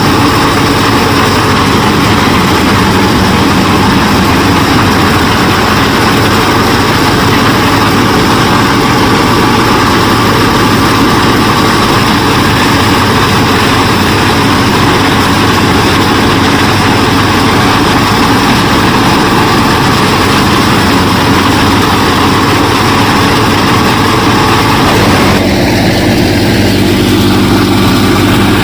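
Small home-built mini combine harvester and thresher running steadily with a continuous engine-like machine drone; its tone shifts about 25 seconds in.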